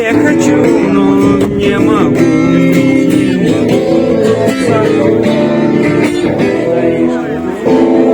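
Live guitar strummed steadily, with a man's voice singing along.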